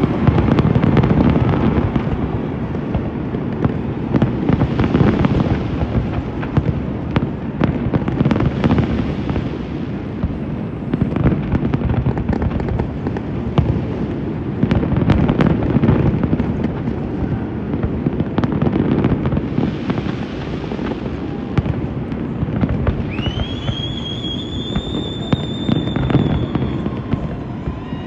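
Fireworks display going off continuously: a dense run of bangs and crackles over low booms. Near the end a high whistle rises and holds for about four seconds.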